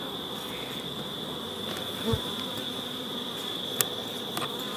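Honeybees buzzing steadily around an open hive box, under a steady high-pitched tone. A soft knock comes about two seconds in and a sharp click near the end.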